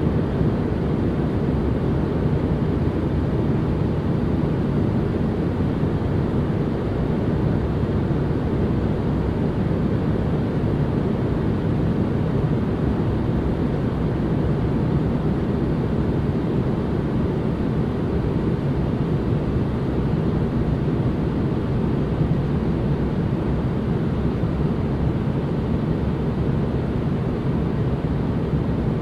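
Steady noise-machine sound: a constant, unchanging deep rush, heaviest in the low range, with little hiss on top.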